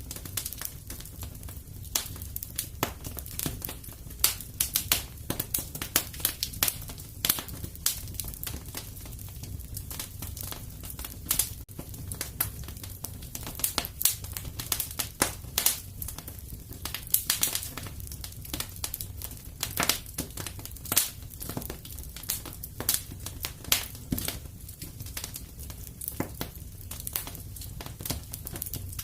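Wood fire crackling in a fireplace: irregular sharp pops and snaps, several a second and uneven in strength, over a steady low rumble of the flames.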